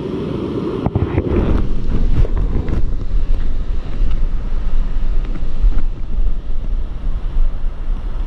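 Wind buffeting the microphone over a steady rushing noise like running water, with a few knocks and handling bumps in the first three seconds.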